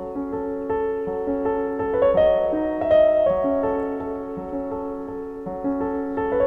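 Gentle solo piano music, slow held notes and chords.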